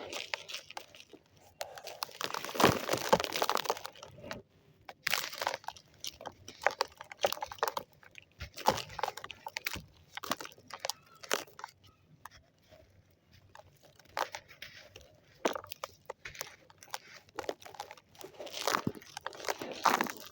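Lumps of dry white sand crumbling and crunching, a gritty crackling. A longer burst of crumbling comes about two seconds in and another near the end, with scattered small crackles between.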